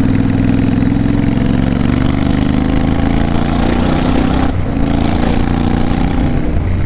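Royal Enfield Continental GT 650's 648 cc parallel-twin engine running loud with its silencers removed, open-pipe exhaust, with a brief dip in the engine note about four and a half seconds in.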